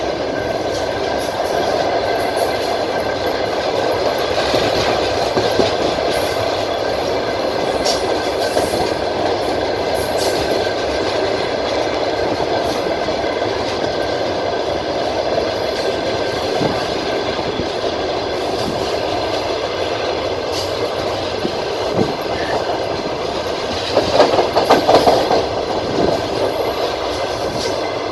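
Passenger train carriage running along the line, heard from aboard: steady running noise with the wheels clacking over rail joints. A quick run of louder clacks comes near the end.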